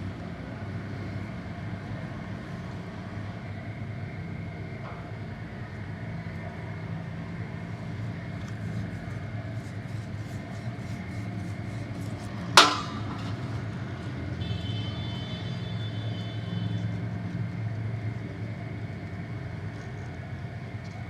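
Steady low mechanical hum with light tapping, broken about twelve seconds in by one sharp, loud metallic clang, then a high ringing tone for a couple of seconds.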